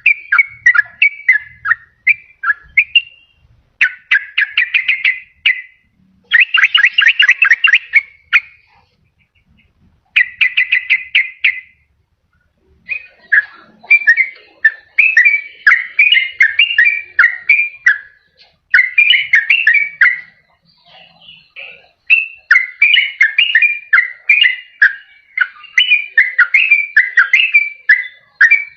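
Yellow-vented bulbul (trucukan) singing. The first half is several bursts of fast repeated chattering notes, each one to two seconds long with short gaps between them. From about halfway on comes a near-continuous run of bubbly warbled phrases.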